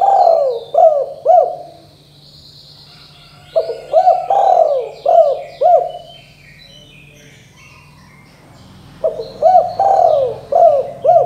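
Spotted dove cooing: three phrases of about five swooping coos each, a few seconds apart. Smaller birds chirp faintly in the background.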